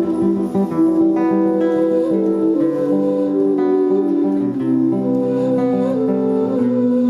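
Acoustic guitar playing, plucked and strummed, with held notes.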